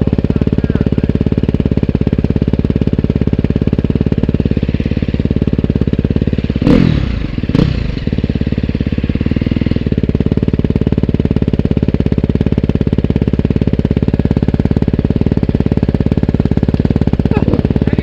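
Motorcycle engine idling steadily at close range, with two brief thumps about seven seconds in.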